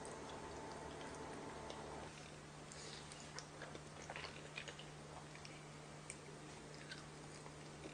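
Faint close-miked chewing: scattered small clicks and crackles of food being bitten and chewed, thickest in the second half, over a steady low hum.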